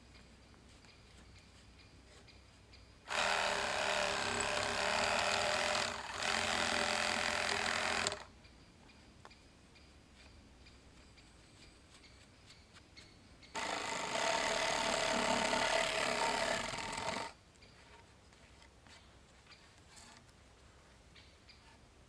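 A small motorised tool runs in two bursts, the first about five seconds long with a brief dip in the middle and the second about four seconds long, with faint ticks and rustles between them.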